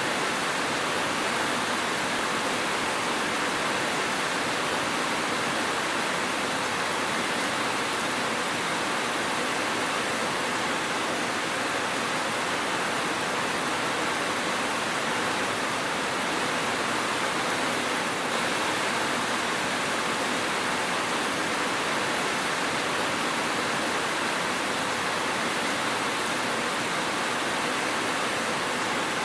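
Steady rain, an even, unbroken hiss with no thunder or separate drops standing out.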